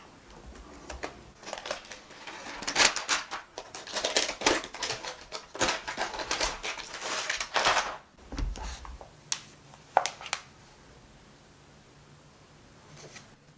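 A dense run of quick clicks, taps and rustles from objects being handled, busiest in the middle seconds, then two sharp clicks and a quieter stretch near the end.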